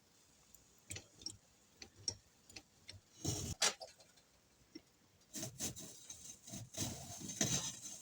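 Hand-cranked apple peeler-corer working an apple: a few scattered clicks and knocks, then from about five seconds in a continuous run of clicking and scraping as the crank is turned to peel and core it.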